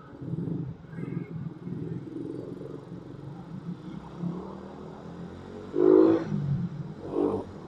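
Suzuki Raider 150 single-cylinder motorcycle engine running at low revs, with a few short, louder sounds about six and seven seconds in.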